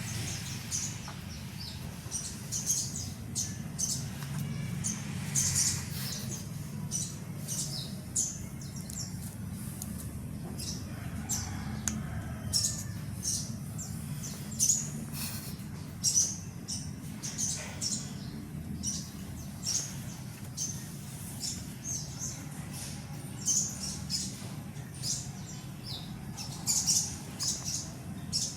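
Baby sun conures chirping: short, high calls repeated over and over at an uneven pace, over a steady low hum.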